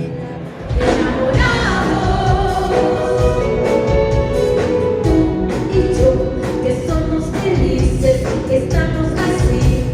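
Live concert music: a band playing a song, with singing voices.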